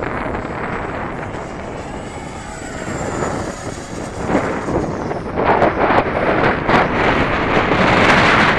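An 80 mm electric ducted-fan RC jet flying by, its thin fan whine gliding down in pitch around the middle. Heavy wind buffeting on the microphone runs underneath and grows louder and gustier in the second half.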